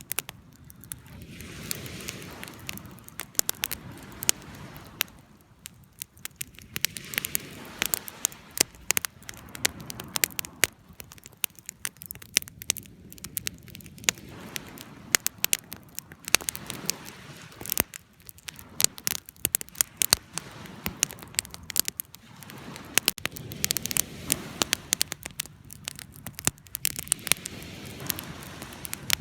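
Wood campfire crackling, with frequent sharp pops and snaps over a soft rushing noise that swells and fades every few seconds.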